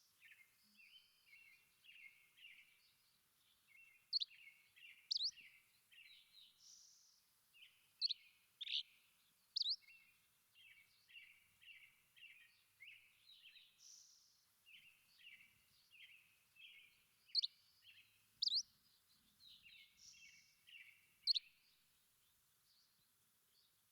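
Birdsong: a running chatter of short, quick notes, broken every few seconds by loud, sharp whistled notes in groups of two or three. The song stops a couple of seconds before the end.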